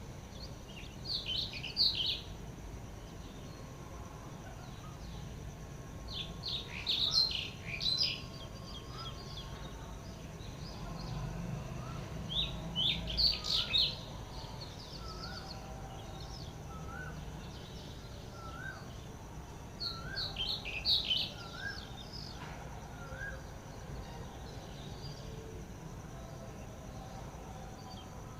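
Wild birds singing: four bursts of quick, high chirping phrases, with a softer single note repeated about once a second through the middle, over a steady high-pitched background hiss.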